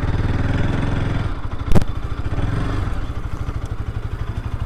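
Bajaj RS 200's single-cylinder 199.5 cc liquid-cooled engine running as the motorcycle comes in and slows. The engine note drops a little over a second in, and a single sharp knock follows just after. The engine then settles to a steady, pulsing idle.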